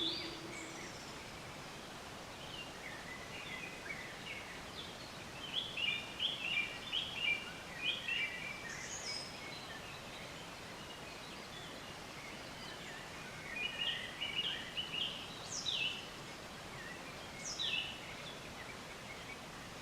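Small birds chirping over a steady outdoor background hiss. The chirps come in two bouts of quick high notes, about five to eight seconds in and again around fourteen to sixteen seconds, with a few sharp sweeping calls between.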